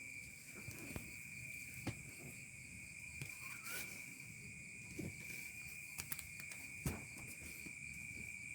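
Insects chirring in one steady high-pitched drone, with a few faint scattered knocks.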